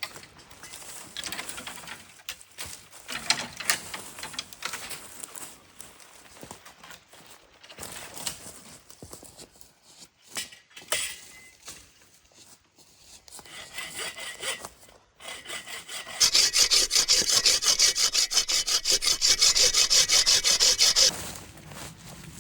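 Hand saw cutting wood: scattered scraping and handling noises at first, then a burst of fast, even saw strokes for about five seconds near the end that stops suddenly.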